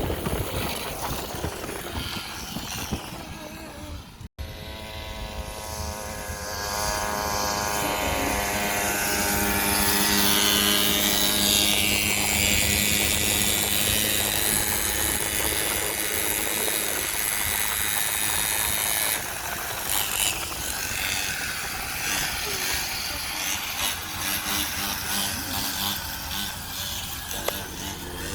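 Coleman minibike's small single-cylinder engine running under way. Its pitch climbs as it accelerates from about five seconds in, then holds near a steady speed, with wind rumbling on the microphone. The sound cuts out for an instant about four seconds in.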